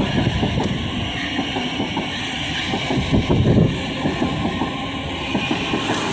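A train running past on the rails: a steady rumble with many short knocks and rattles of wheels on track, swelling at the start and again about three and a half seconds in.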